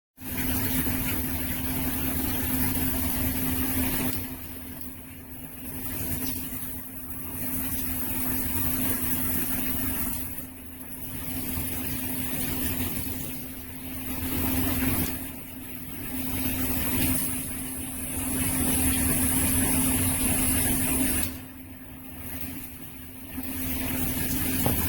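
Aisoso 5-setting shower head spraying water: a steady hiss of spray with a low hum underneath. The hiss drops and returns every few seconds.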